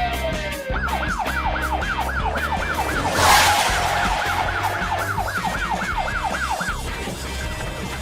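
Police siren in fast yelp mode, sweeping up and down about three times a second, over background music; a falling tone glides down in the first second, and a short whoosh of noise comes about three seconds in. The siren stops about a second before the end.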